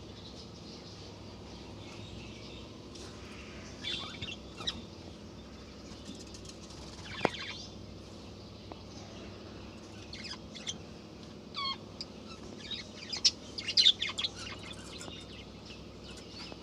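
Budgerigars giving short, scattered high chirps and squawks. One sharp, loud, falling call comes about seven seconds in, and a busier burst of chirping comes near the end.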